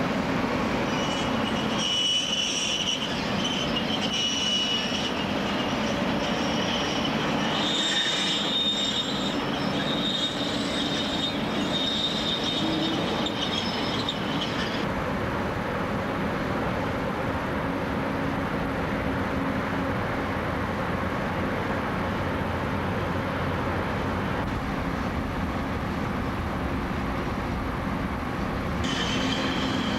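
Freight train of New South Wales 46 class electric locomotives and container wagons rolling past, the wheels squealing with high, held tones over a steady rumble. The squeal stops about halfway through, leaving only the rumble of the passing wagons, and returns just before the end.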